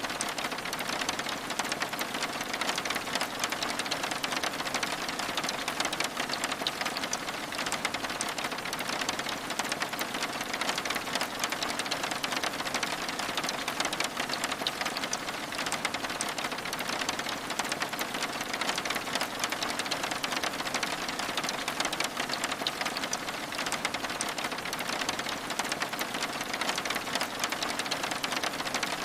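Steady rain on a cabin's window glass: a continuous hiss packed with fine, rapid drop ticks, even throughout.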